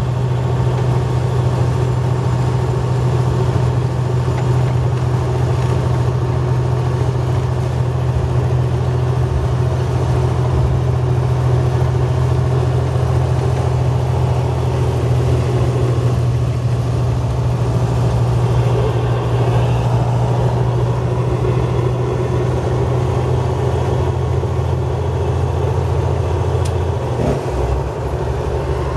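A motor vehicle's engine running steadily, a low, even hum that shifts slightly near the end.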